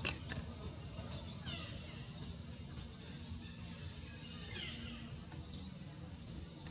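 Birds calling in the background: short high chirps that sweep downward, about four of them, over a steady low rumble.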